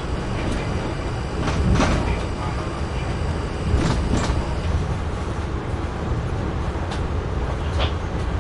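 Amtrak Northeast Regional passenger train rolling with a steady rumble, its wheels giving sharp clacks over the rail joints and switches of an interlocking: a pair about two seconds in, another pair near four seconds, then single clacks near the end.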